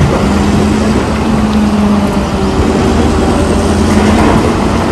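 Loader's engine running steadily, a loud, even noise over a constant low hum.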